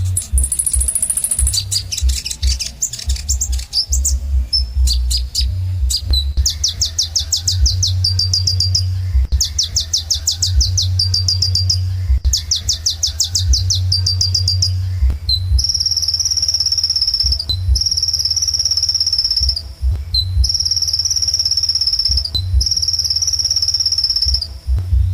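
Kolibri ninja (purple-throated sunbird) singing loudly: rapid high trills of quickly repeated notes, then, from about halfway, four long sustained high-pitched notes a little over a second and a half each.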